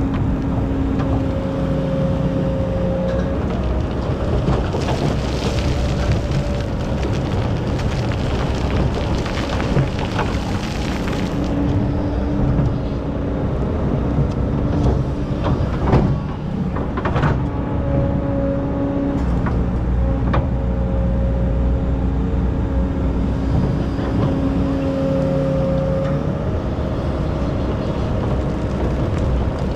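Excavator's diesel engine running under working load, its steady drone changing pitch in stretches as it works. There is a rushing, scraping noise for several seconds early on, and a few sharp knocks around the middle.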